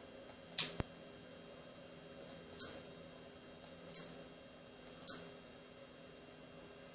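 Electromechanical switching clicks from a model railway control circuit working its magnetic accessories: four sharp clacks one to two seconds apart, each with a faint tick just before it, over a faint steady hum.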